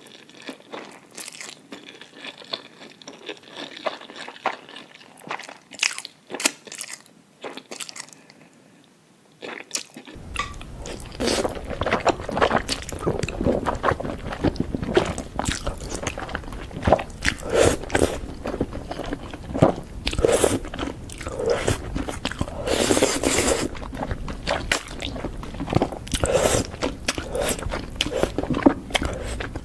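Close-miked eating sounds: a person biting, chewing and crunching food during a spicy noodle mukbang, as a dense run of short wet and crisp strokes. About a third of the way in the sound becomes louder and fuller, with a steady low rumble underneath.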